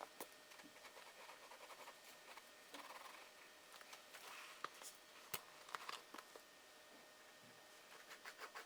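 Faint scratching of drawing strokes on paper, broken by a few sharp small ticks a little under halfway through and again near the end.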